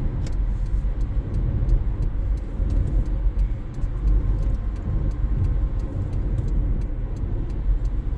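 Road and engine noise inside a moving car: a steady low rumble, with scattered light ticks and rattles over it.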